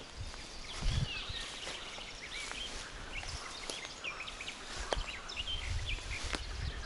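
Several songbirds chirping and singing in a forest, with the low thuds and clicks of footsteps on the path.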